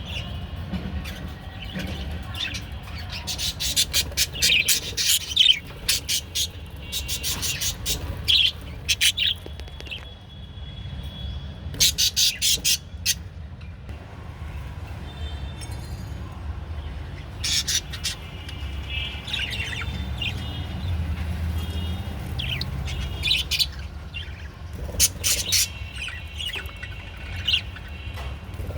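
Budgerigars chirping and warbling in quick clusters of sharp chirps, with a steady low hum underneath.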